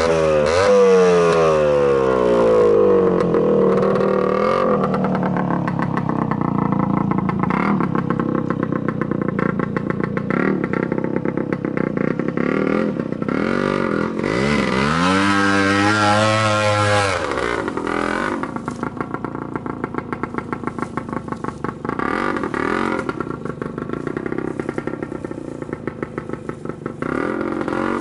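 Trials motorcycle engine revving and dropping back as the bike is ridden, with one big swell of revs that rises and falls about halfway through, then settling into lower, choppy running near the end.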